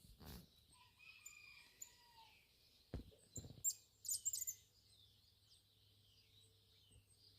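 Faint outdoor birdsong: a haze of high chirping, a couple of longer mid-pitched calls in the first two seconds, and a cluster of sharp high chirps around the middle. Three short low thumps come at the start and about three seconds in.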